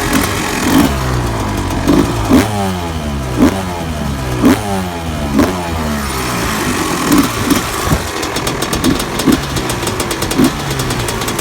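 250cc two-stroke dirt bike engine revving hard, the throttle blipped about once a second with the pitch sweeping back down between blips.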